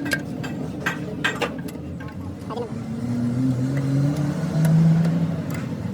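An engine running steadily, its pitch stepping up and down a few times, with sharp metallic clicks and taps in the first two seconds.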